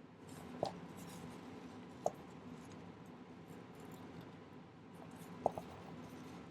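Light handling of small sterling silver wire links and tools: three short, pinging metallic clicks over a faint low rustle.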